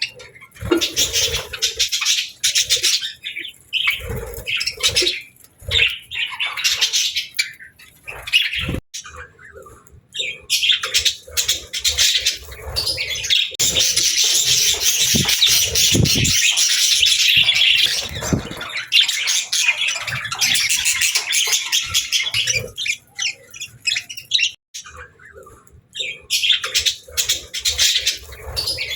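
Pet budgerigars chattering, warbling and chirping in a fast, continuous stream of high calls, with a few short low thumps mixed in.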